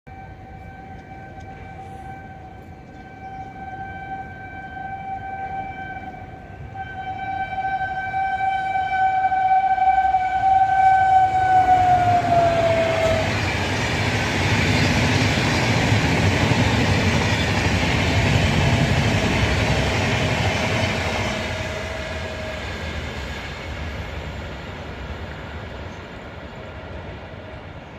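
Express train passing at speed. A long horn blast, held for about twelve seconds, drops in pitch as the train comes level. Then the loud rushing rumble of the passing coaches fades away over the last several seconds.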